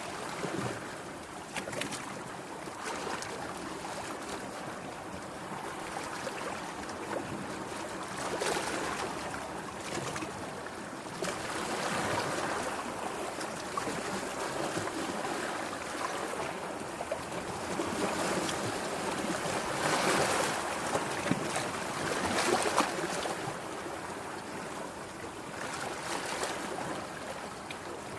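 Sea waves washing and surging, rising and falling in slow swells, with wind on the microphone.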